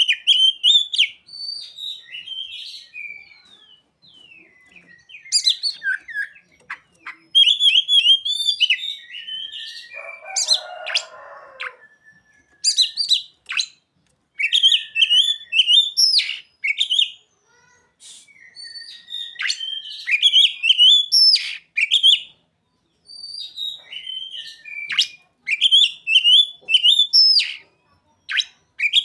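Oriental magpie-robin (kacer) singing in quick runs of chirped and whistled phrases with short pauses between them. The song is filled with mimicked bar-winged prinia (ciblek) and sunbird (sogon) calls, and there is a harsh buzzy note about ten seconds in.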